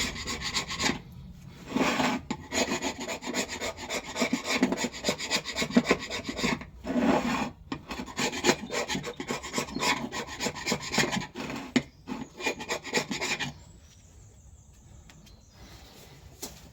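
An old blunt chisel scraping old gasket material and rust off the metal flange faces of an engine's fuel tank in quick repeated strokes. The scraping stops near the end.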